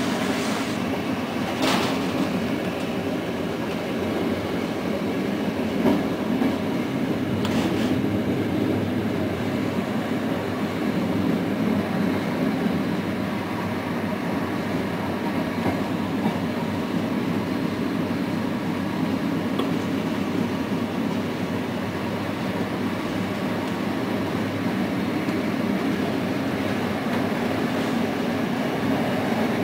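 Passenger train running at speed, heard from on board: a steady rumble of wheels on the track, with two sharp clicks about two and seven seconds in.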